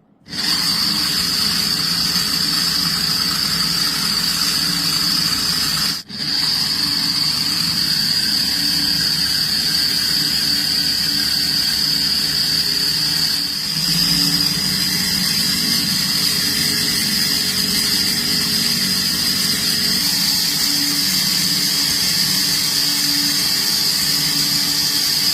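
Small electric motors of a homemade model V6 engine running, a steady high-pitched whine with a lower hum beneath it, breaking off for a moment about six seconds in.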